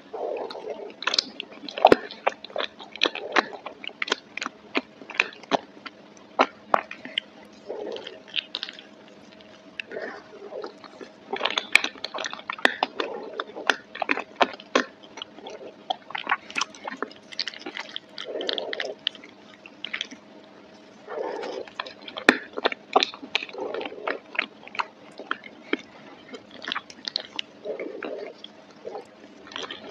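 Close-miked chewing of creamy macaroni and cheese, with many irregular wet mouth clicks and smacks.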